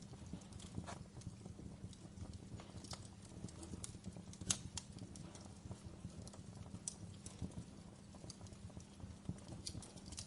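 Wood logs burning in a fireplace, crackling with frequent, irregular sharp pops and snaps over a steady low rumble. One louder pop about four and a half seconds in.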